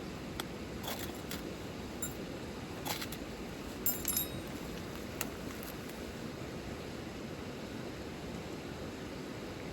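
Steady hiss of rain, with a handful of sharp clicks and light clinks scattered through the first five seconds, the loudest cluster about four seconds in.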